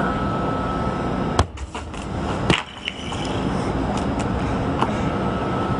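A concrete block dropped onto a foam-reinforced earthquake shelter: a sharp impact about a second and a half in, then a second knock about a second later, over a steady background hum.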